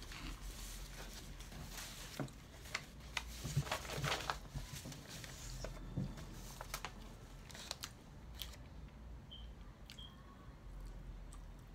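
Close-up mouth sounds of a person biting and chewing crispy KFC fried food: a run of crunches and crackles, dense for most of the stretch and thinning out near the end.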